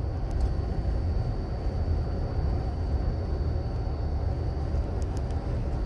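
Car cabin noise while driving: a steady low rumble of engine and tyres on the road, with a few faint clicks about five seconds in.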